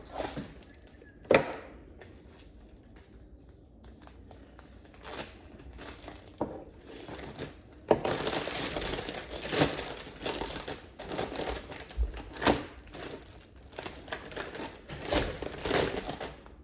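Handling noise: scattered clicks and knocks, then from about eight seconds in a steady crinkling and rustling with sharp knocks among it.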